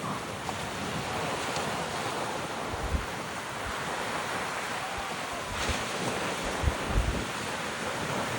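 Sea surf washing onto a beach, a steady rush, with wind buffeting the microphone in low thumps a few times.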